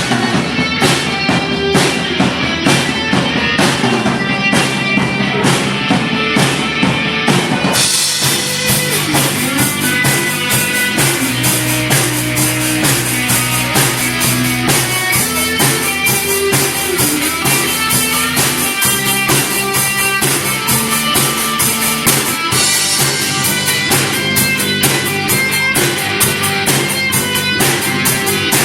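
Live rock band playing an instrumental passage on electric guitar, bass and drum kit, with steady drum strokes. The cymbal playing gets fuller about eight seconds in.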